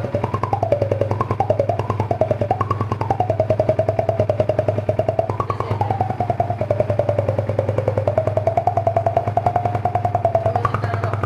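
Yamaha Vixion single-cylinder motorcycle exhaust running at idle with a rapid, even pulsing, overlaid by a wavering, tune-like tone that glides up and down.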